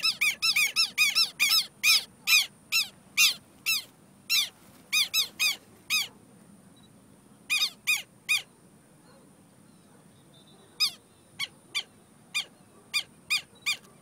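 A bird calling with short, sharp, high notes over and over. The calls come quickly at first, then thin out into small groups with gaps of a few seconds between them.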